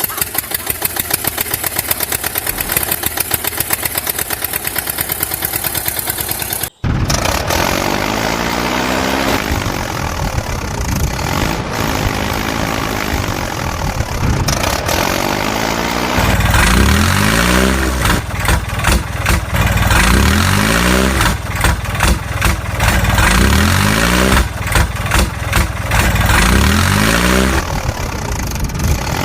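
Tractor engine running with a fast, even beat; after a sudden break it runs on, revved up and down again and again.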